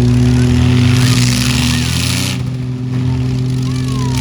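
Mini truck engines running steadily in a demolition derby, a constant low engine drone with a high hiss over it that drops away about two and a half seconds in.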